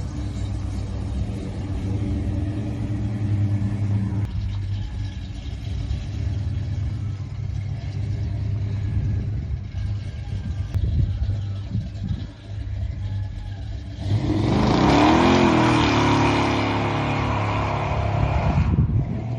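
1970 Chevelle's 454 big-block V8 running through its new H-pipe and Flowmaster mufflers, a steady low rumble. It gets louder about three-quarters of the way through, with a brief rise and fall in pitch as the engine is revved.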